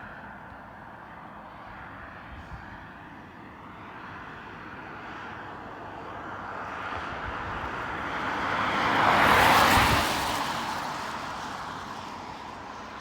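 Airliner's jet engines passing close by, the noise swelling to a loud peak about nine to ten seconds in and then fading away.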